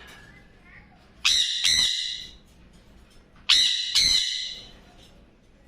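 Parrot squawking: two loud, harsh calls about two seconds apart, each made of two quick parts.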